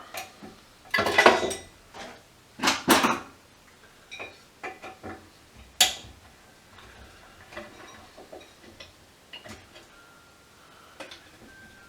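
Tools and small metal parts clattering and clicking on a workbench while a variable frequency drive is taken apart. Two bursts of clatter come in the first few seconds, a sharp click follows at about six seconds, and then come scattered lighter clicks.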